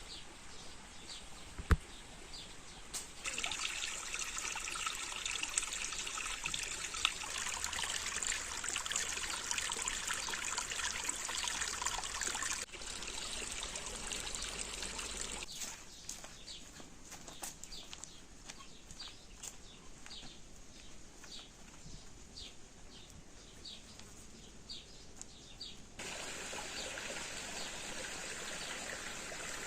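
Water trickling and running, with a bird giving short repeated chirps. There is one sharp knock about two seconds in, and the water sound jumps in level several times as the scene cuts.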